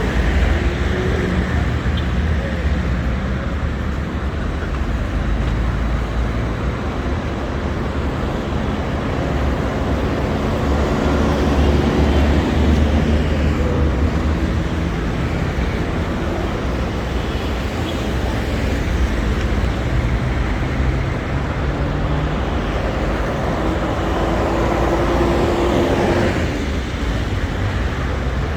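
City street traffic: cars and buses passing in a steady rumble of engines and tyres, with one vehicle's engine note standing out near the end.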